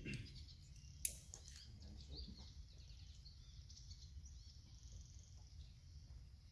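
Faint birds chirping over a low background hum of the outdoors. About a second in comes one sharp click, the loudest sound, followed by a few softer ticks.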